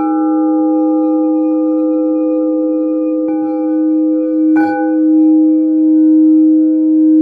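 Singing bowls struck and left to ring, several long sustained tones at different pitches layered together. Fresh strikes land at the start, a little after three seconds and again near the middle, each adding to the ringing, which wavers slowly in loudness.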